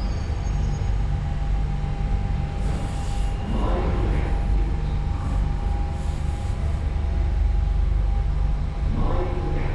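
London Underground Central Line tube train running through the station: a loud, steady low rumble with a thin steady hum above it.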